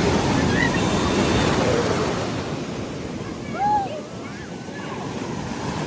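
Ocean surf washing around the shore, louder for the first two seconds and then easing off, with wind buffeting the microphone.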